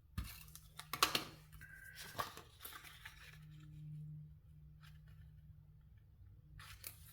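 Paper and cardstock being handled on a craft table: a few short rustles and scrapes, the loudest about a second in, over a faint steady low hum.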